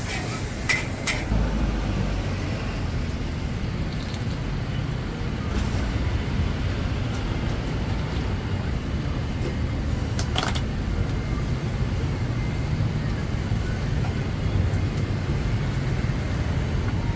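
Steady low rumble of passing street traffic, with a few light clicks near the start and one sharp click about ten seconds in.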